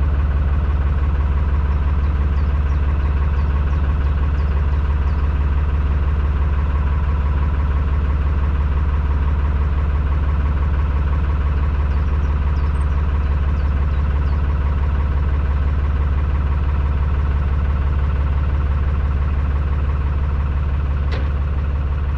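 Narrowboat diesel engine idling steadily, a deep even drone, with one sharp click near the end.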